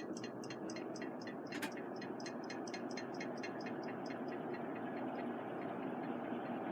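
1987 SMC Scandia 42-inch EG-42 ceiling fan speeding up on its high setting, a steady whoosh that slowly grows louder. A rapid light ticking, about five a second, runs along with it and fades out after about four seconds.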